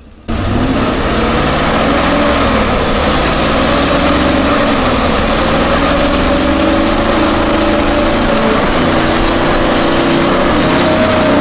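A heavy truck's engine running steadily, starting abruptly just after the start, its pitch wandering slightly up and down.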